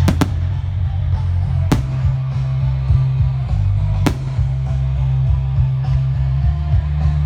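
Guitar rock music plays loudly over a fireworks display. Sharp firework bangs cut through it: a quick double crack at the start, then single bangs about a second and a half and about four seconds in.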